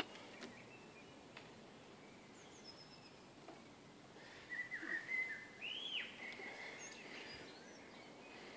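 Faint bird calls: a few high chirps, then a run of whistled notes about halfway through, one sliding up and back down, over a low background hiss.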